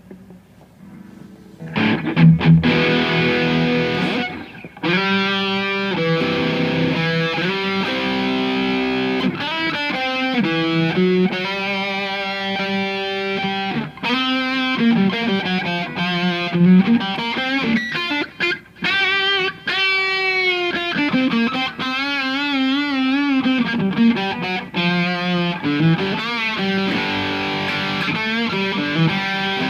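Gibson Les Paul electric guitar played through an Orange OR15 tube amp and 2x12 cabinet, starting about two seconds in. It plays single-note lead lines with held notes, string bends and vibrato.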